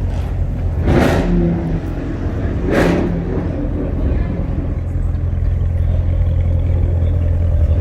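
A car engine running with a loud, steady low rumble, broken by two short sharp bursts of noise about a second in and near three seconds.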